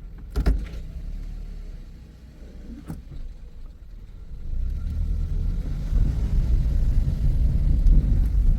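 A Toyota car with an MMT semi-automatic gearbox heard from inside the cabin while driving: a low engine and road rumble that grows louder from about halfway through. A sharp knock comes about half a second in, and a lighter click near three seconds.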